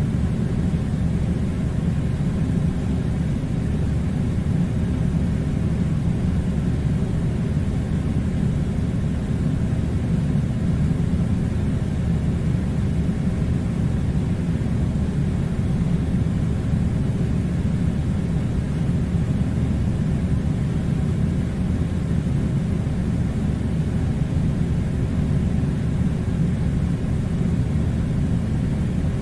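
A steady low rumbling noise, even and unbroken, with no distinct events.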